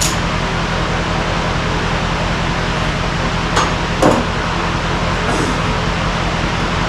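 A steady mechanical drone, likely an engine running, with two short knocks about three and a half and four seconds in.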